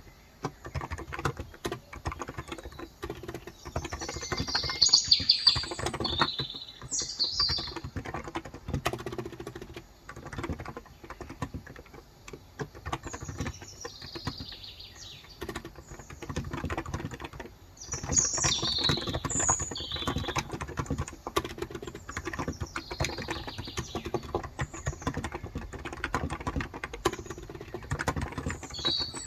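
Steady fast typing on a Cox Endeavor electrostatic capacitive keyboard with light 35 g switches, a continuous patter of keystrokes. Birds chirp over it in short bursts several times, loudest about five seconds in.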